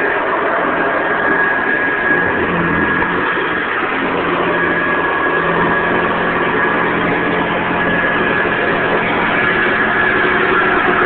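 Hoover Convertible upright vacuum cleaner running steadily: a continuous motor and fan roar with a steady high whine over it. The owner hears it showing signs of its age and thinks the motor will need fixing up.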